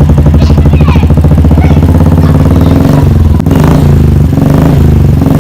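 Royal Enfield Bullet's single-cylinder engine running steadily through a Dolphin aftermarket exhaust packed with ceramic wool. It gives a loud, deep, even thump of exhaust pulses, with a brief dip a little past halfway.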